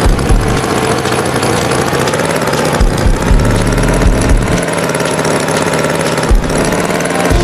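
Animated tractor's engine sound, running steadily with a low rumble and a few heavier low thumps.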